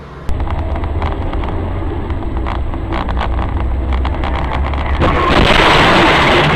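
Car driving, heard through a dashboard camera: a steady low rumble of engine and road noise with scattered short clicks. About five seconds in, it turns louder and harsher.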